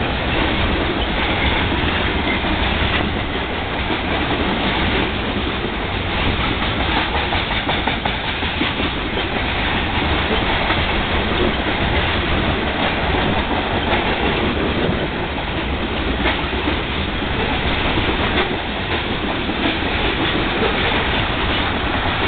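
Freight train of Union Pacific covered hopper cars rolling past: a steady, loud rumble and clatter of steel wheels on the rails.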